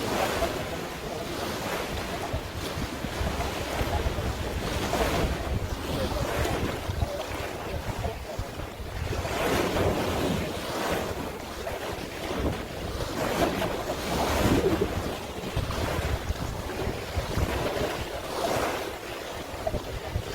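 Sea waves washing in surges every few seconds, with wind buffeting the microphone.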